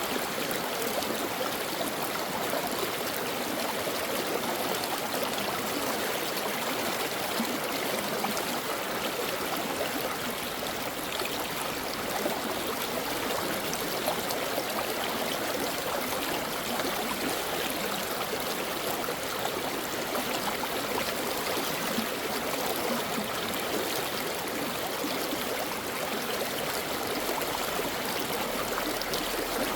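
Shallow stream flowing over rocks, a steady rushing and trickling of water.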